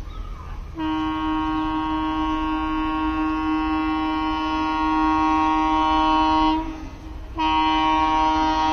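Electric train horn sounding a long, steady blast of several seconds, breaking off briefly, then starting a second long blast that is still going at the end, over a low rumble.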